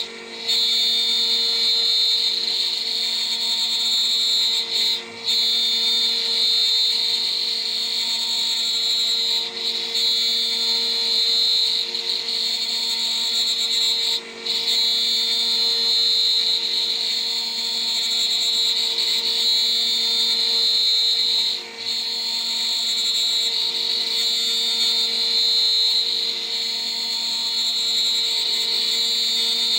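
A DIY CNC router's spindle running at about 14,000 RPM with a 3 mm three-flute end mill, milling steadily with a high whine. The sound dips briefly every few seconds.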